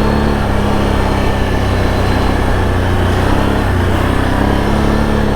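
Can-Am Outlander ATV engine running steadily, a continuous drone with only slight changes in pitch.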